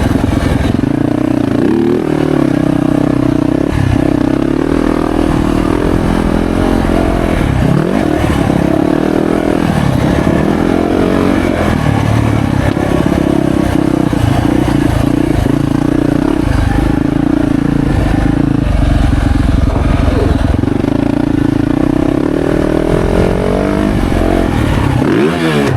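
2025 Yamaha YZ450F's four-stroke single-cylinder engine running hard on a motocross track, its pitch rising and falling with the throttle. There are brief drops in revs about a third of the way in and rising revs near the end.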